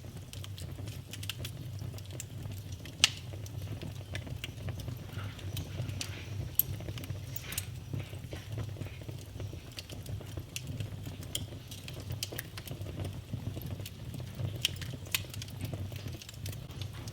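Wood fire in a fireplace crackling: irregular sharp pops and snaps over a steady low rumble, with two louder pops about three seconds in and again a few seconds later.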